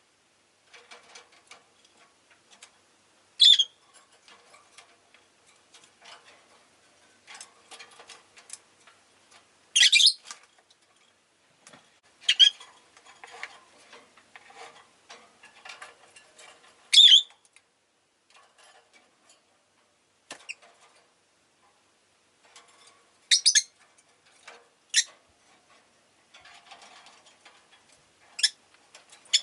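Rosy-faced lovebirds calling: about eight loud, short, shrill shrieks a few seconds apart, with faint clicks and soft chatter in between.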